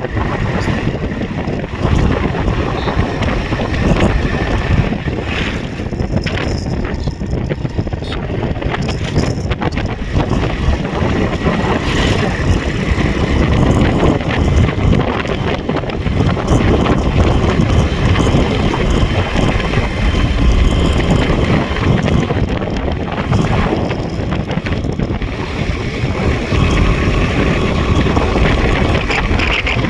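Motorcycle running steadily along a road, with heavy wind buffeting the microphone.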